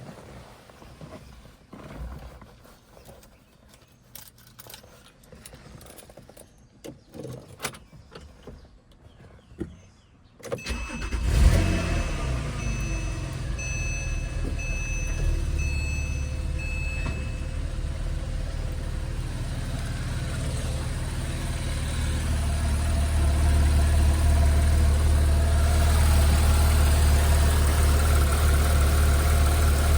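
Faint clicks, then about ten seconds in the 2009 Porsche 911 Carrera's direct-injection flat-six is cranked and catches on a cold start with a brief flare of revs. It settles into a steady fast cold idle, which grows a little louder about two-thirds of the way in.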